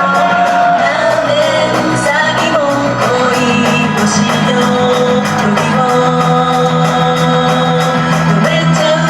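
Japanese idol pop song: a woman singing held melodic lines over a backing track with a steady beat.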